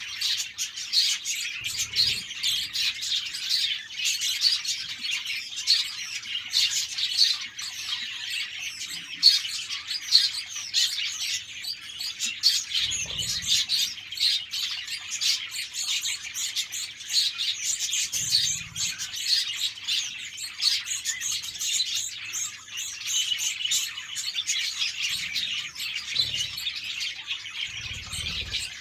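A flock of budgerigars chirping and chattering continuously, many birds at once. A few faint low thuds come through now and then.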